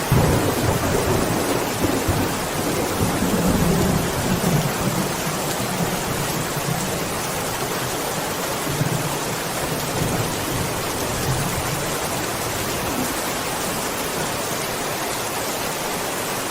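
Steady heavy rain with thunder rolling in low: a rumble swells right at the start and again a few seconds in, then dies down, with a fainter rumble near the middle.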